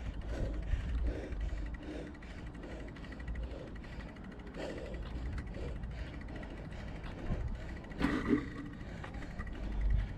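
Wind buffeting the microphone of a GoPro on a moving bicycle, with uneven low rumble and the rolling noise of the ride. A brief louder sound comes about eight seconds in.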